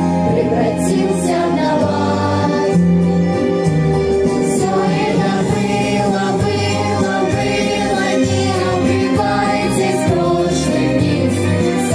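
A song playing: a group of voices singing together over an instrumental backing track with a steady bass.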